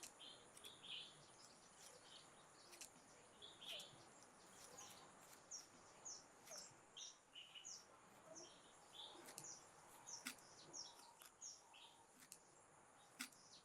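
Faint outdoor ambience with small birds chirping on and off, short high notes scattered through it, and a few faint ticks.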